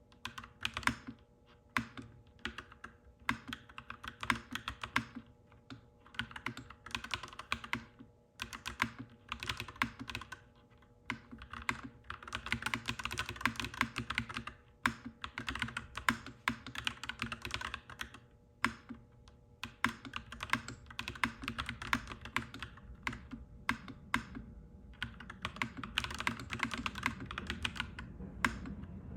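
Clacky mechanical keyboard being typed on in quick runs of keystrokes broken by short pauses. A low background rumble swells near the end.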